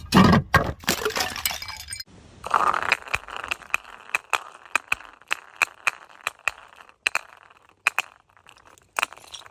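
Glass bottle smashing with a loud crash, then a second burst about two and a half seconds in, followed by glass shards clinking and tinkling one by one as they scatter and settle.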